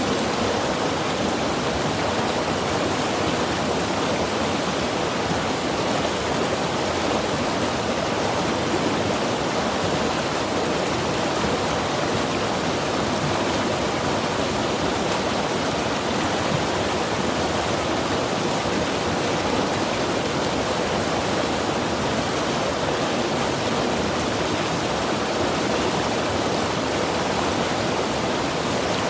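Mountain river rushing over rocks, a steady, even roar of flowing water.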